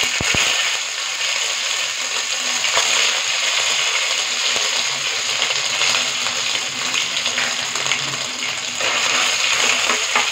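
Ginger-garlic paste sizzling and spitting in hot oil in a kadai, a dense, steady crackle, with a few sharp knocks right at the start.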